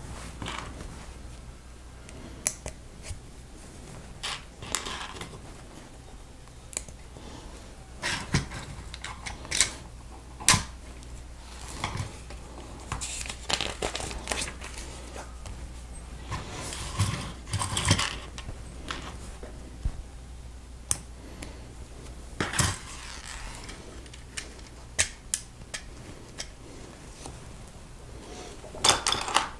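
Plastic Lego pieces, Technic parts among them, being handled and snapped together: scattered sharp clicks and clacks with a few short scraping rattles, about the middle and near the end.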